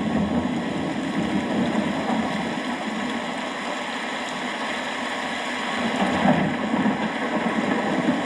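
Steady rain, an even hiss of falling drops, under a low rumble that swells again about six seconds in.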